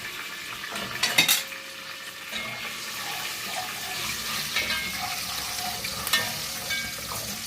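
Rice frying in hot oil in a cooking pot, sizzling steadily as it is stirred. There are sharp clatters against the pot about a second in and again around six seconds.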